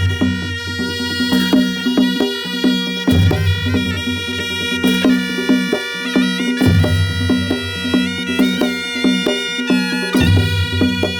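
Nepali panche baja band playing: a sustained, nasal shawm melody (sanai) over a steady rhythm of drum and cymbal strikes.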